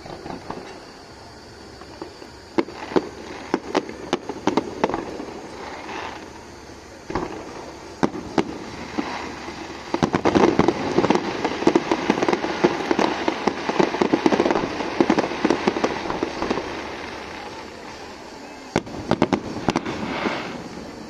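Aerial fireworks going off: scattered sharp bangs at first, then a dense run of rapid crackling and bangs from about halfway through, easing off before another cluster of bangs near the end.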